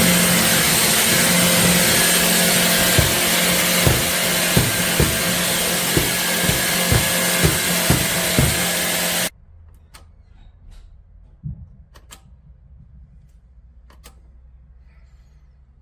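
Vacuum cleaner motor running at full power, with light knocks about twice a second, then switched off and stopping abruptly about nine seconds in, followed by faint clicks and handling.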